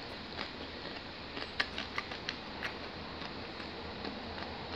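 Chewing with a few short, sharp mouth clicks, clustered about one and a half to three seconds in, over a steady background hiss.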